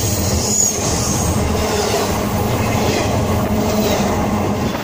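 Freight cars rolling past within inches of the microphone at speed: a loud, steady rumble and clatter of steel wheels on the rails.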